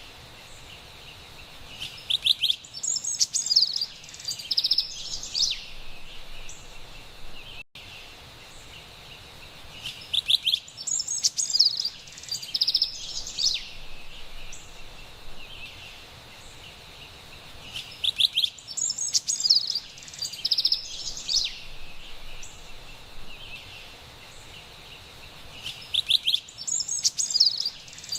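Carolina wren singing: bursts of quick, repeated high notes lasting about four seconds, coming back about every eight seconds, four times, over a faint steady high hiss.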